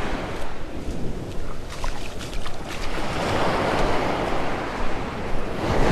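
Surf washing up on a sandy beach, with wind rumbling on the microphone. One wave swells up from about three seconds in and is loudest near the end.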